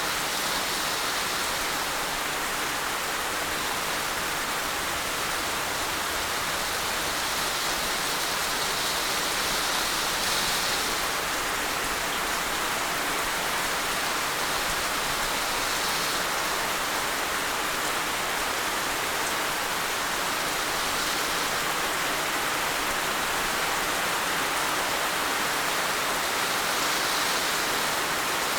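Heavy rain falling in a steady, dense hiss with no distinct drops or gusts.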